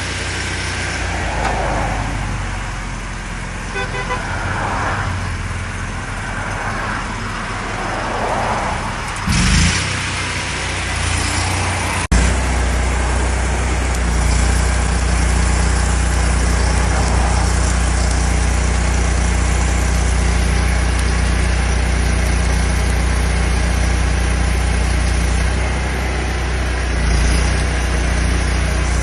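Highway traffic passing by close to the roadside, several vehicles going past one after another. About twelve seconds in the sound breaks off abruptly, and a steady engine running nearby takes over.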